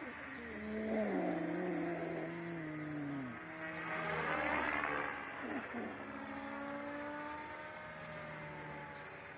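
Align T-Rex 500X electric radio-controlled helicopter flying, test-flown on a new pitch curve. Its motor and rotor whine changes pitch as it manoeuvres, falling from about one to three seconds in, then sweeping as it passes around four to five seconds in.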